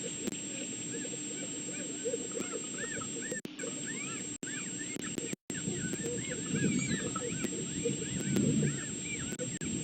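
Many short, overlapping squeaks and whines from red wolf pups, thickening and getting louder in the second half. A steady high electronic whine runs underneath, and the sound cuts out completely for a moment, twice.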